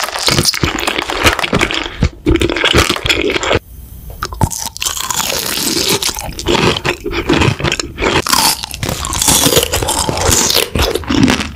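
Close-miked ASMR eating: a mouth crunching and chewing hard, brittle food in quick, dense bites, with a short lull about three and a half seconds in.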